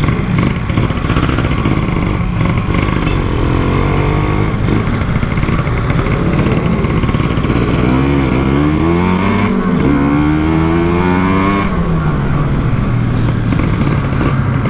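Kawasaki Ninja 150 two-stroke twin engine in a Yamaha RX-King, running as the bike is ridden. About eight seconds in it revs up, dips briefly as at a gear change, climbs again, then falls away near twelve seconds.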